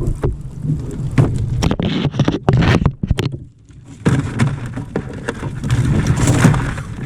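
Knocks and rattles from handling a crab pot and crabs aboard a kayak, over a steady low rumble, with a brief lull about halfway through.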